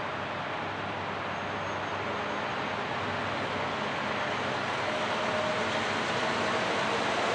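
Diesel-hauled freight train passing: a steady rumble that slowly grows louder.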